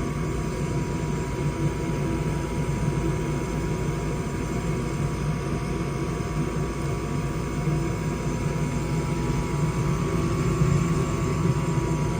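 Goodman gas furnace running with its burners lit: a steady mechanical hum with a thin high steady tone over it.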